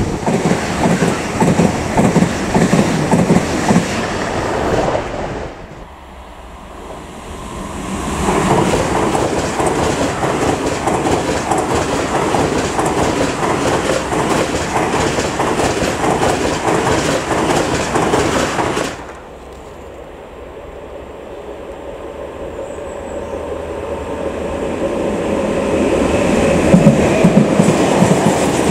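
An ICE high-speed train passes at speed with a dense rushing and clattering of wheels on rails, broken twice by sudden cuts. After the second cut a freight train of tank wagons comes closer, its rolling noise building steadily until the tank cars clatter past near the end.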